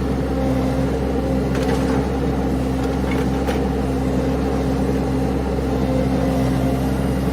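Engine running steadily at a constant speed, with a couple of faint clicks about one and a half and three and a half seconds in.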